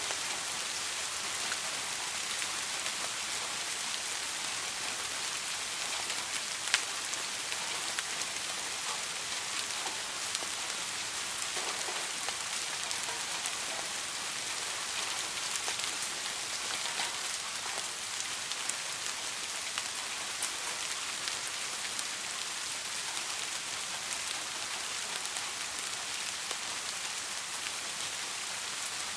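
Soft rain falling steadily, an even hiss with scattered drops ticking; one sharper drop stands out about seven seconds in.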